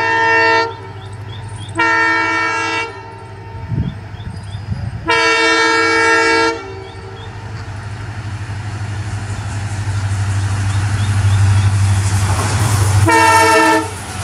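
Diesel locomotive of the Ashram Express sounding its horn in four blasts: one ending just under a second in, a short one about two seconds in, a longer one around five seconds in, and a brief one near the end. Underneath, the locomotive's engine drones low and grows steadily louder as the train comes through, with rising wheel and rail noise.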